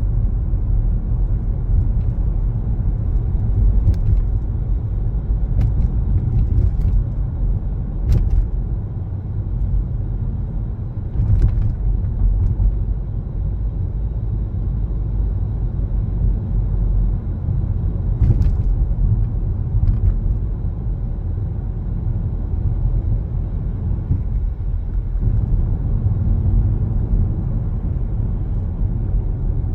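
Car driving along: a steady low rumble of road and engine noise, with a few brief, irregular clicks or knocks.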